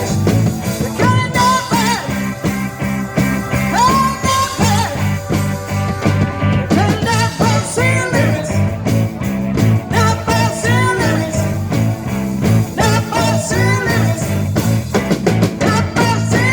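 Live rock band playing, with a pulsing bass line under guitar.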